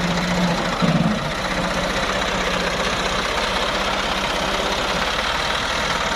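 Diesel tractor engine running steadily at idle, with an even rapid pulse and a brief rise in level about a second in.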